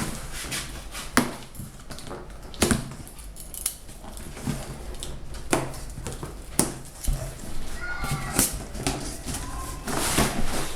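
Cardboard carton being opened by hand: scattered sharp clicks and knocks of the box and its packaging being cut and handled, with a short squeak near the end and a steady low hum underneath.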